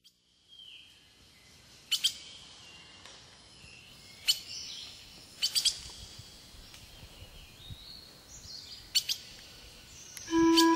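Wild birds calling: short sharp chirps every second or two, some in quick pairs or threes, over faint higher twittering. Music with steady held notes starts near the end.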